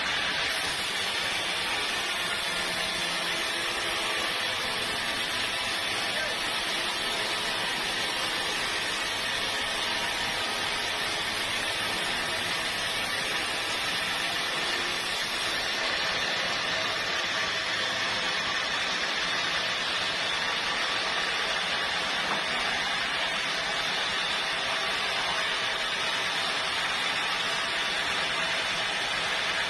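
Sawmill machinery running with a steady, unbroken noise that changes slightly about halfway through.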